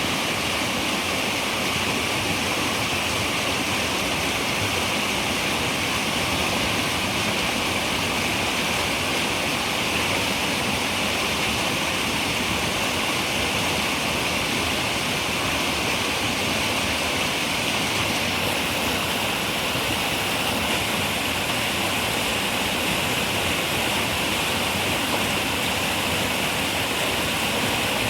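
A river running steadily, a continuous rushing of flowing water that neither rises nor falls.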